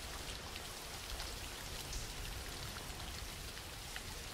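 Steady rain falling: a soft, even hiss of rain with a few faint scattered drop ticks.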